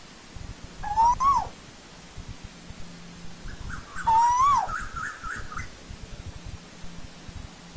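Asian koel calling: two single whistled notes about three seconds apart, each rising and then dropping away sharply. Around the second note there is a run of short, quick, slightly higher notes, about four a second.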